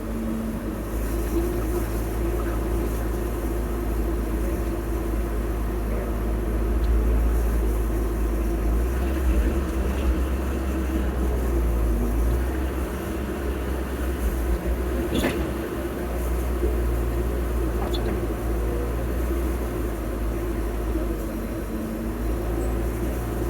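Heavy earth-moving machine's engine running steadily with a low, even drone, a little louder for a few seconds in the middle, and one sharp click about fifteen seconds in.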